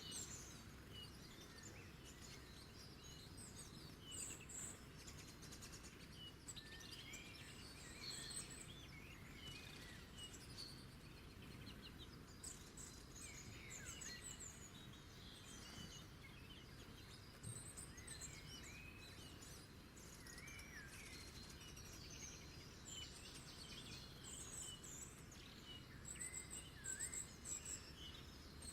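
Several small birds chirping and singing, faint short calls and trills one after another, over steady low background noise.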